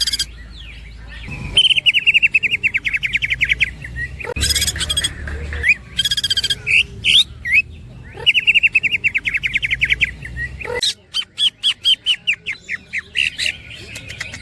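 Cucak ijo (greater green leafbird) singing rapid chattering trills, each a run of quick notes lasting about two seconds, with short calls between them. Near the end come faster, clipped notes in the tapping 'platukan' style.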